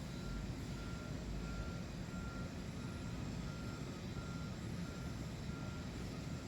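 A vehicle's reversing alarm beeping evenly, about three beeps every two seconds, over a low steady rumble.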